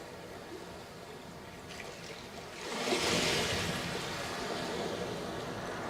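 Waves washing onto a sandy beach: a quieter wash at first, then a wave breaks about two and a half seconds in and its surge fades slowly.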